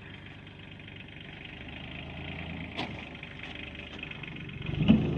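Vehicle engine idling, growing louder toward the end, with a short sharp sound a little before three seconds in and a louder thump near the end.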